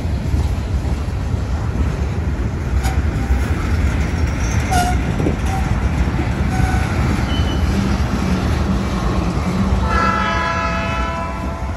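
Slow-moving train rumbling steadily, with a horn blowing one long held note from about ten seconds in until the end.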